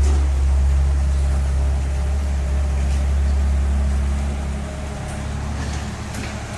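A large engine running steadily with a deep hum, dropping a little in level about four and a half seconds in.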